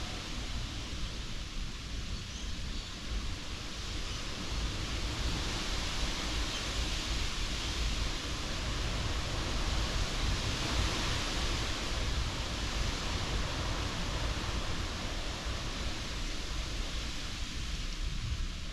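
Strong wind rushing and buffeting the microphone, a low rumble under a steady hiss that swells a little around the middle.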